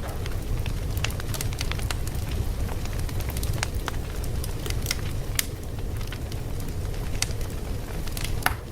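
Fire crackling: a steady low rumble with irregular sharp pops and snaps, one of the louder snaps near the end.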